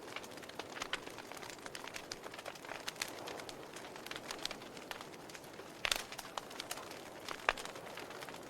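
Wood fire in a fireplace crackling, with irregular sharp pops and snaps over a soft steady hiss; the loudest pop comes about six seconds in.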